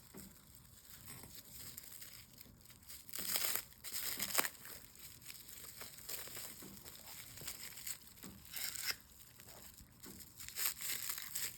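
Packing material crinkling and tearing as wrapped stone slabs are unwrapped by hand. It comes in irregular bursts of rustling, loudest about three to four seconds in and again near the end.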